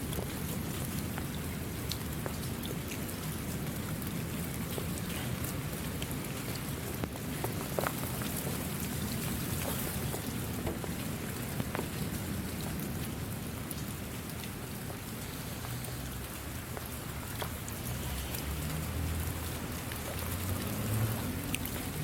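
Steady rain falling, an even hiss studded with scattered sharp drop ticks, over a low rumble that swells a little near the end.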